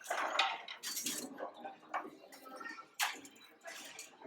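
Items clattering and clinking as they are handled and moved around on store shelves or in a shopping cart, with a couple of sharp knocks about one and three seconds in.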